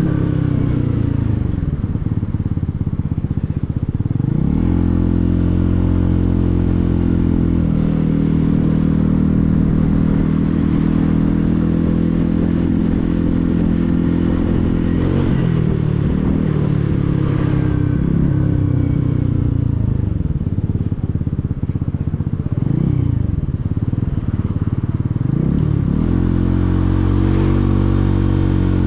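Motorcycle engine under way. Its pitch falls early on, climbs a few seconds in, holds steady for about ten seconds, then dips and rises several times with throttle and gear changes before climbing again near the end.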